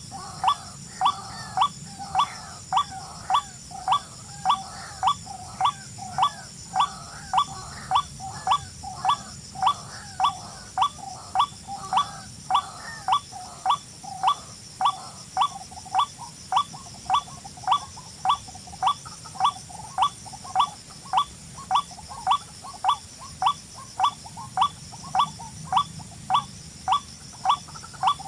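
A bird calling one short sweeping note over and over at a very even pace, about one and a half to two notes a second, over a steady high hiss.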